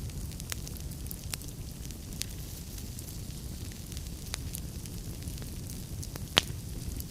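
Wood fire burning in a fireplace: a steady low rumble of flames with scattered crackles, and one sharp pop of burning wood near the end.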